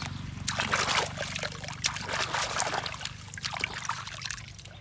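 Water trickling and splashing over toy trucks being washed, in uneven spurts that ease off near the end.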